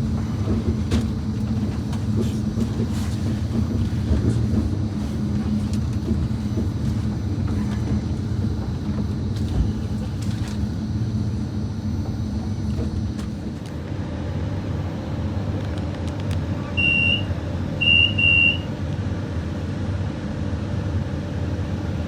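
Steady low rumble of a CrossCountry Voyager diesel train at standstill. Near the end come a few groups of short high beeps: the door-closing warning before departure.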